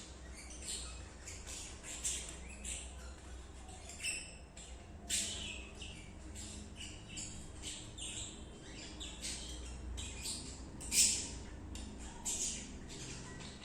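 Budgerigars chirping and squawking in a rapid, continuous run of short high calls, with one louder squawk near the end.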